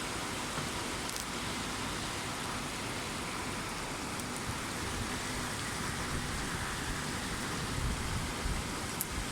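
Steady rain falling, an even hiss with a few faint drop clicks. A low rumble starts to build near the end.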